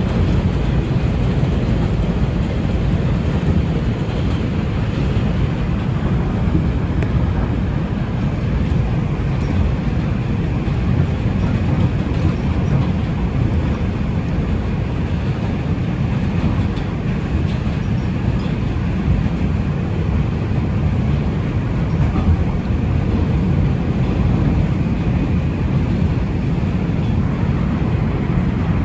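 New York City Subway R142 train running steadily along the track: a continuous low rumble of wheels on rails with no stops or changes.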